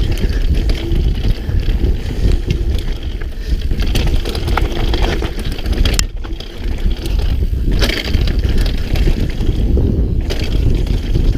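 Mountain bike riding fast down a rough trail: tyres rumbling over the ground with repeated knocks and rattles from the bike as it hits bumps. Wind buffets the helmet-mounted microphone.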